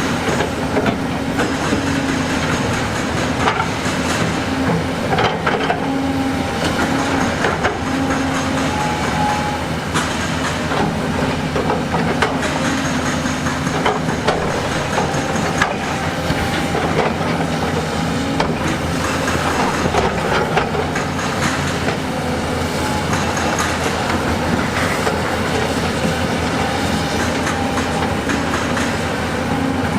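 Heavy diesel construction machinery at work: a steady engine drone under continual clanks and rattles of metal and rock.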